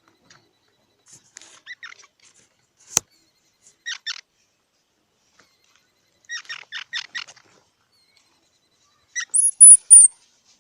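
Squirrel calling in short runs of quick, squeaky chirps, with a single sharp click about three seconds in and louder, high-pitched squeals near the end.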